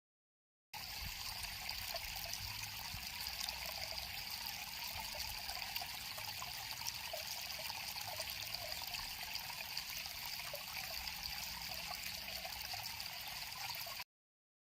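River water flowing over stones, a steady trickling and babbling rush with no distinct events.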